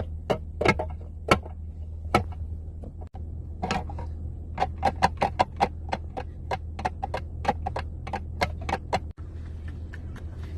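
A quick, irregular run of sharp clicks or taps, a few at first and then several a second, over a steady low hum.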